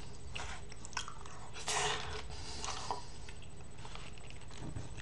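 A person chewing and biting smoked mackerel close to the microphone, with wet mouth noises. The loudest is a brief noisy rustle about two seconds in.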